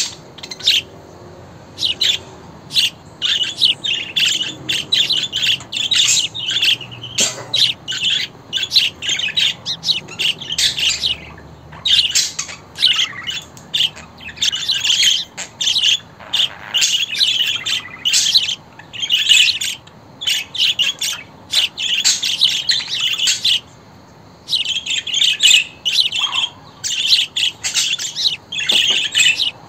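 Budgerigars chattering: fast runs of short, high-pitched chirps and warbles, broken by brief pauses about 11 and 24 seconds in.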